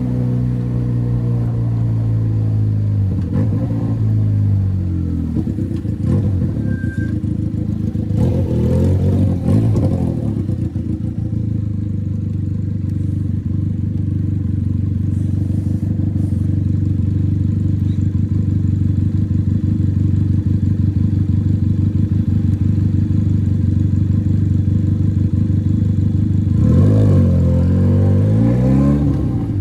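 Benelli 302 motorcycle engine running through an open exhaust with no silencer. The engine note falls over the first few seconds, then holds steady for a long stretch. Near the end it dips and climbs again.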